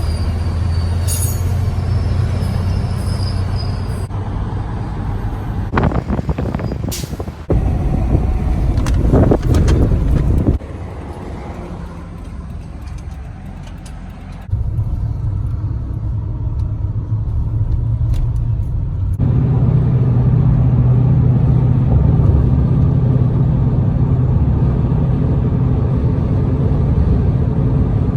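Road traffic with buses running past, their engines a steady low drone, in several short clips cut abruptly together; a few sharp hisses of the kind an air brake makes come about six to seven seconds in.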